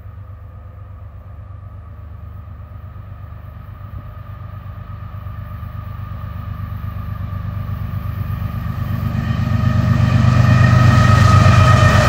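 CSX diesel freight locomotives approaching, their engine rumble growing steadily louder, with the hiss of wheels on rail joining near the end as the lead locomotive arrives.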